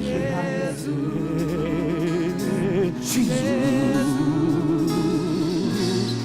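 Gospel worship music: held sung notes with a wide, wavering vibrato over a sustained musical backing.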